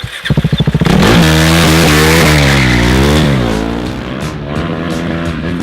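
KTM RC 390's single-cylinder engine revving hard, first in a quick stutter of bursts, then held high and swinging up and down, while the rear tyre skids and squeals in a drift.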